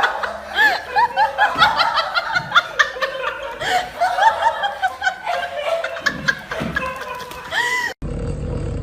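People laughing and snickering in quick short bursts. About eight seconds in, it cuts to a steady low hum.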